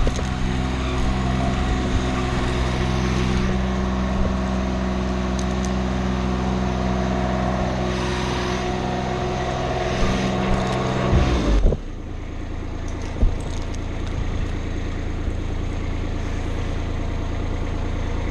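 An engine running steadily, then cutting out with a quick drop in pitch about twelve seconds in, leaving a lower, steady engine drone running underneath.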